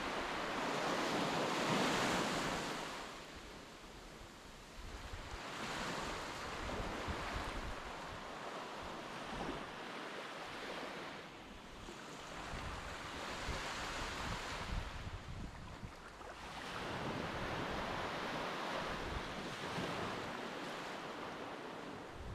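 Waves washing onto a beach, the surf swelling and easing every few seconds, with wind buffeting the microphone.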